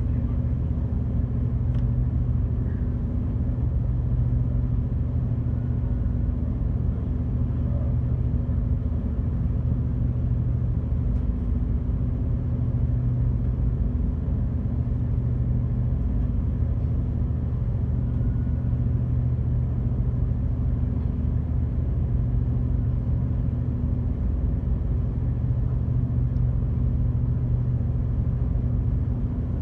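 Passenger ferry's engines running steadily, heard on board as a constant low hum with a few steady low tones.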